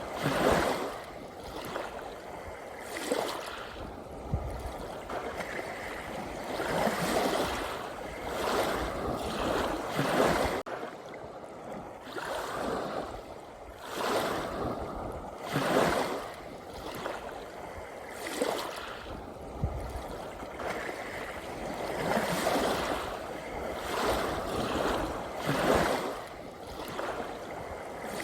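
Ocean waves washing in, a surge of surf every two to three seconds over a steady wash of water.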